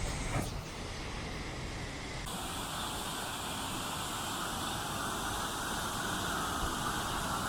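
Waterfall rushing: a steady hiss of falling water. The sound shifts abruptly about two seconds in, brighter and fuller after the change.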